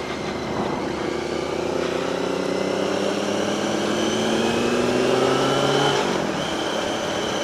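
Yamaha R1 inline-four engine pulling under throttle, its pitch rising steadily for about six seconds, then dropping suddenly as the revs fall and holding steady.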